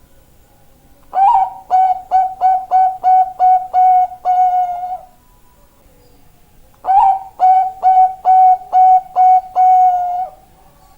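Zebra dove (Bangkok perkutut) singing: two cooing phrases, each a sliding opening note followed by a quick run of short coos on one pitch and a longer final coo.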